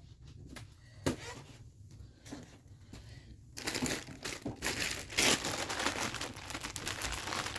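Plastic or paper being handled and crumpled: a few light knocks at first, then dense crinkling and rustling from about three and a half seconds in.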